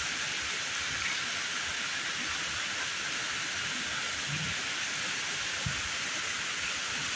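Heavy rain pouring down in a severe thunderstorm: a steady, even hiss of downpour.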